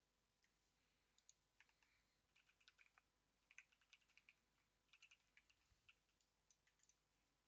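Faint typing on a computer keyboard: irregular clusters of quick key clicks.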